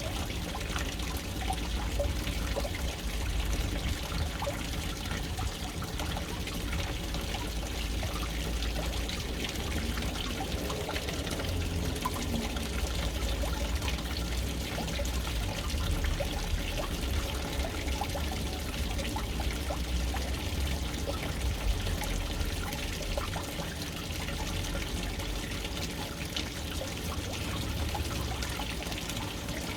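Water running steadily from a float valve and falling into a household water tank, a continuous splashing pour with a low rumble.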